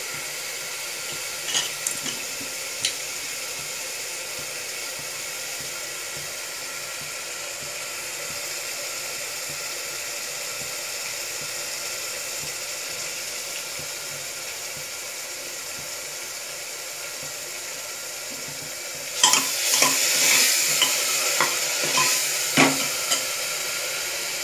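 Green garlic, coriander and chilli chutney sizzling steadily in hot oil in a pressure cooker as it fries until light pink. A few clicks of the steel ladle come about two seconds in, and about 19 seconds in stirring starts: the ladle scrapes and knocks against the pot and the sizzle grows louder.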